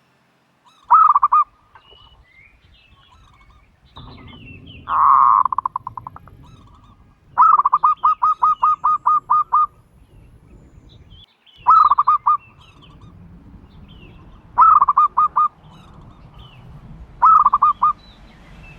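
Turtle dove calling in six bouts of quick, evenly repeated notes, the longest a run of about ten notes just past the middle.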